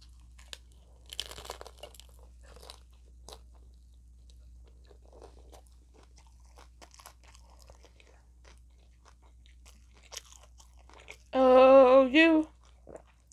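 Close-miked chewing of a crunchy taco shell: scattered small crunches and crackles as the shell is bitten and chewed. About eleven seconds in, a voice gives a brief hum lasting about a second.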